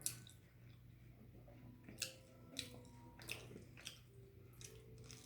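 A person chewing food close to the microphone, with faint wet mouth smacks and clicks every half second to a second.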